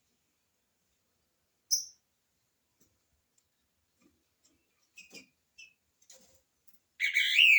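Green-winged saltator (trinca-ferro) giving one short high chirp about two seconds in and a few faint chips, then breaking into a loud phrase of arching whistled notes near the end.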